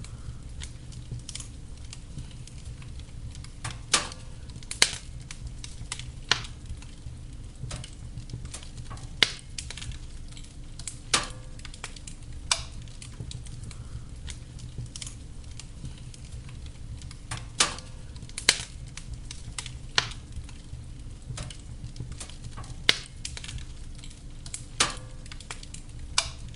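Wood fire crackling in a fireplace, with sharp, irregular pops every second or few over a steady low rumble and hiss of the burning logs.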